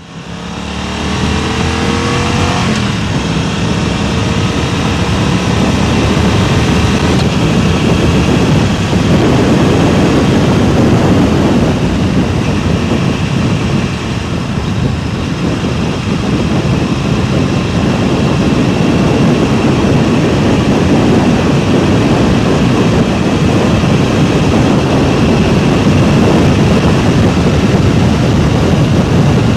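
An engine speeding up, its pitch rising over the first few seconds, then heavy wind rushing and buffeting on a DJI Mic Mini microphone at speed, with the engine running underneath.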